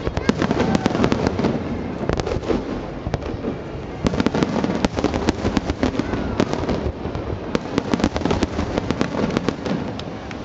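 Aerial fireworks display: many shells bursting, with dense rapid crackling and popping over a steady rumble. It thins briefly about three seconds in, then grows denser again.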